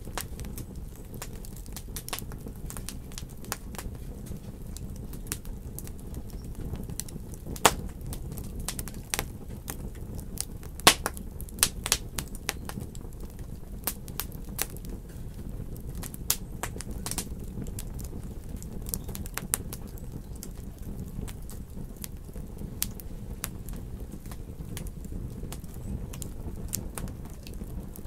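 Wood fire in a fireplace crackling: a steady low rumble with irregular sharp pops, the loudest pops clustered around the middle.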